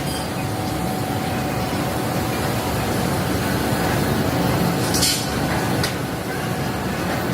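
Steady rumble of factory machinery in a leaf spring works, with two sharp metal clinks about five and six seconds in.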